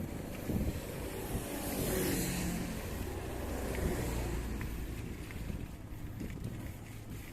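A motor vehicle passing close by about two seconds in, its engine pitch dropping as it goes, over steady low wind rumble on the microphone.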